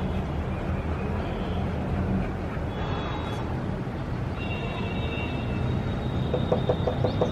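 City street ambience: a steady rumble of traffic. A thin high tone comes in about halfway, and a quick run of short pulses starts near the end.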